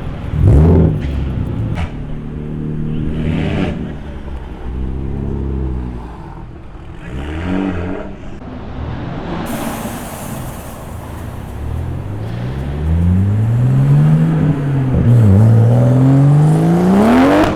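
Performance car engine revving. There is a sharp blip just after the start, then several shorter revs, then a long run of rising revs that dips once and climbs again, growing loudest near the end as the car gets moving.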